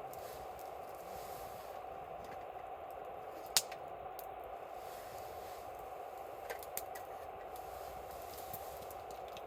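Wood campfire crackling over a steady hiss, with scattered sharp pops, the loudest about three and a half seconds in and two smaller ones near seven seconds.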